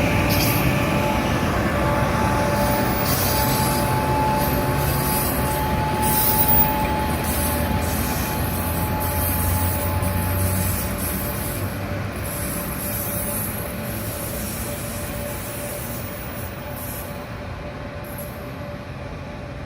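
Train rolling on rails with a steady high wheel squeal over the running noise, slowly fading as it moves away.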